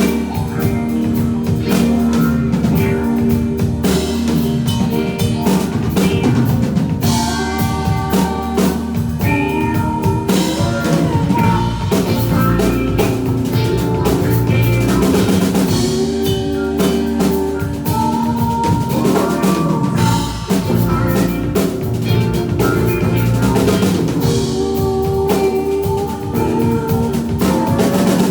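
A band playing music with a full drum kit, kick and snare keeping the beat under pitched melody lines.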